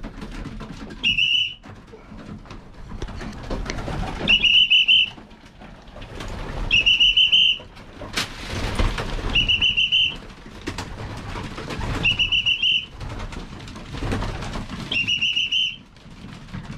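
A pigeon fancier's whistle blown six times in short, high blasts a few seconds apart: the recall signal telling young racing pigeons to come in to the loft.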